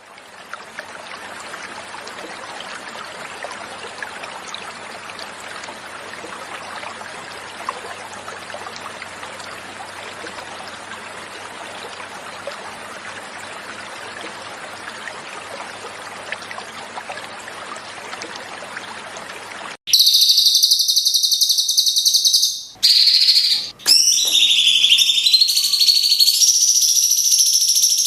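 Flowing water runs steadily for about twenty seconds. Then a cucak cungkok starts singing loudly, with clear, high whistled phrases and two brief breaks, until the end.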